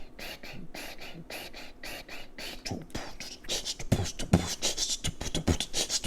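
Close-up chewing of butter-dipped fried shrimp, with a steady rhythm of about four chews a second. In the second half it turns into busier, louder, wet smacking and clicking of the mouth.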